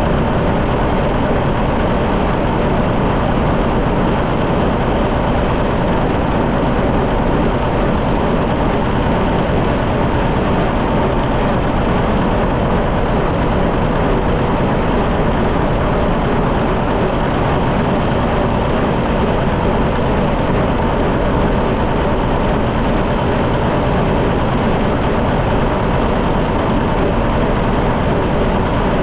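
John Deere 730 tractor's two-cylinder engine running steadily on the road, with an even level throughout.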